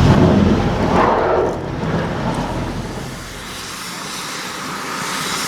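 A train rumbling past at speed, loud at first, then fading away over about three seconds and leaving a quieter, even rushing noise.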